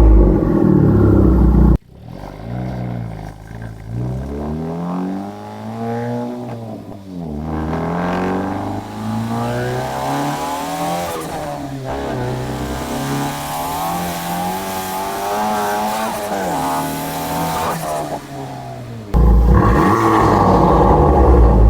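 Honda Civic Type R FL5's turbocharged 2.0-litre four-cylinder with a Milltek exhaust, valve open, revving: the engine note rises and falls repeatedly. The sound cuts abruptly to a louder, denser engine roar about two seconds in and again near the end.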